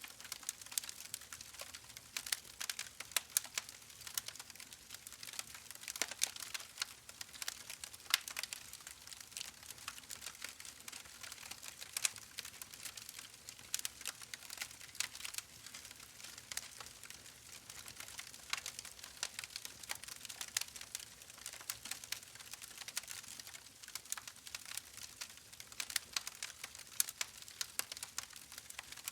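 Steady, dense crackling: many small irregular clicks and crackles.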